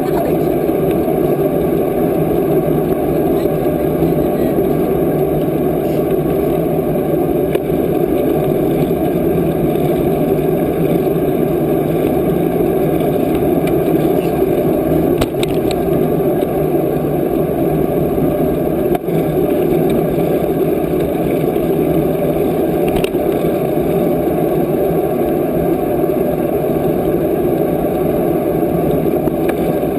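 Steady rushing wind and road noise from riding a bicycle at speed, unbroken throughout.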